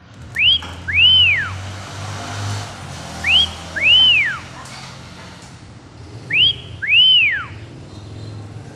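A two-note whistled call, repeated three times about three seconds apart: a short rising note, then a longer note that rises and falls. A low steady hum runs underneath.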